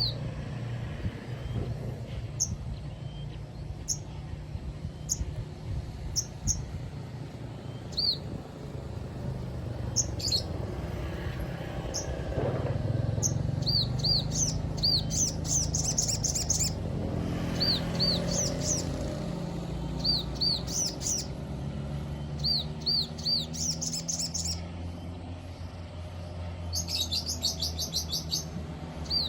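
Sogon songbird calling: sharp high chips and short hooked whistles, often in twos and threes, breaking into fast rapid trills several times, over a steady low rumble.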